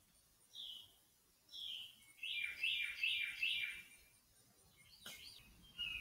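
Backyard birds calling: a short, high, falling chirp about once a second, then a run of four louder notes in quick succession about two to four seconds in. A sharp click comes near the end, among more chirps.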